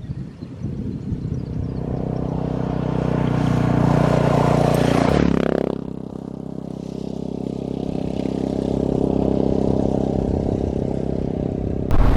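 Suzuki DR650 single-cylinder engine accelerating under way. Its pitch climbs for about five seconds, drops sharply at a gear change, then climbs again and holds steady.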